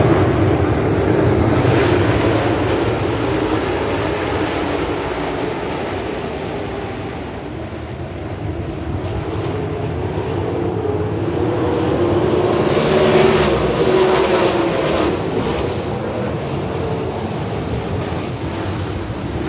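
Four-wheeler (ATV) engine running steadily on the move, with wind rumbling on the microphone; it gets louder about two-thirds of the way through.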